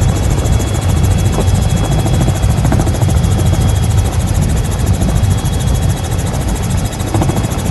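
An engine running steadily: a loud low rumble with a fast, even pulse.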